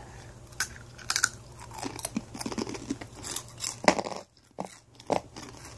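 Two people crunching and chewing Takis rolled tortilla chips: irregular crisp crunches, with a brief pause a little after four seconds.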